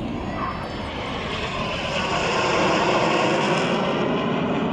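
Aircraft flying past, its engine noise swelling to a peak about three seconds in, then easing off.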